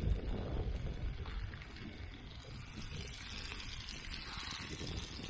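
Flour-dredged pike fillets sizzling and crackling as they fry in hot oil in a pan, with a low rumble in the first second or so.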